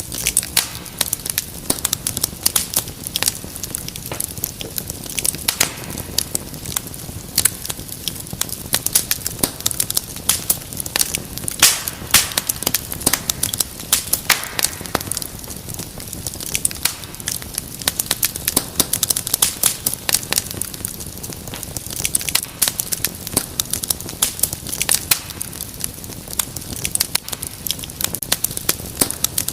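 Wood fire in a fireplace crackling: many irregular snaps and pops over a soft steady hiss.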